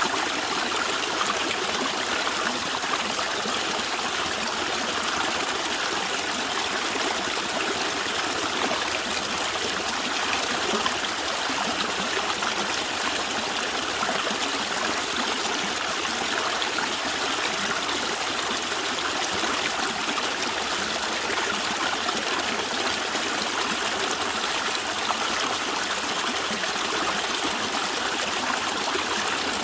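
Natural stream water flowing and gurgling steadily.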